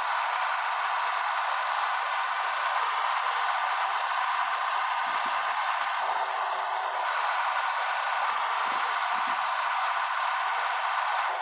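Steady rushing noise of a moving truck, with light rattling.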